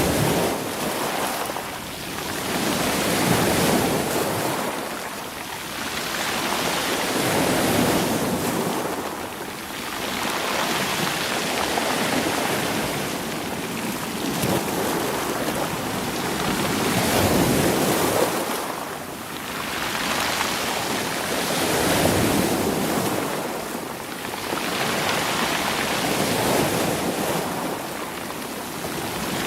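Sea waves surging in and washing back over rolling rocks and stones, swelling and ebbing about every four to five seconds.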